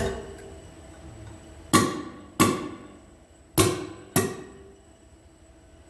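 Sharp metallic knocks, five in all: one at the start, then two quick pairs, each followed by a short ring.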